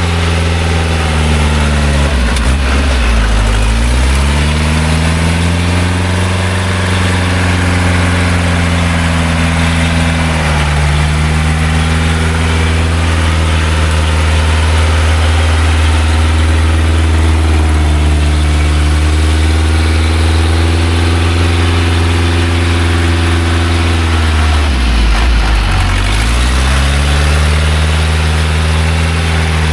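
Engine of a loaded logging truck running under load. Its pitch sags and then recovers three times: about three seconds in, about eleven seconds in, and near the end.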